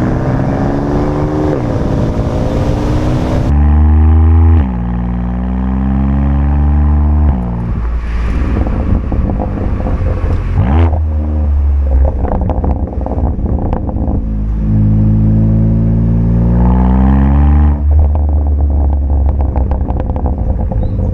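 BMW M4's S55 twin-turbo straight-six through an aftermarket straight-pipe valved exhaust, accelerating hard in several pulls, the pitch rising and then dropping at each gear change. Between the pulls it runs rougher and choppier off the throttle.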